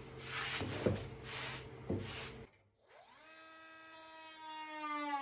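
Wood being cut for an aircraft wing: noisy rasping strokes about once a second over a steady hum, with two sharp clicks. After a short break, a small power tool's electric motor spins up and runs with a steady whine that sags a little in pitch near the end.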